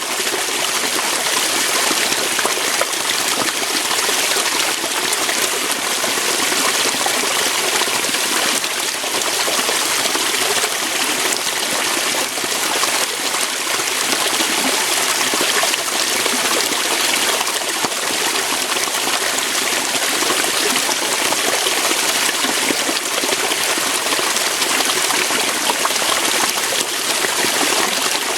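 Waterfall: water rushing and splashing over rocks in a steady, unbroken hiss.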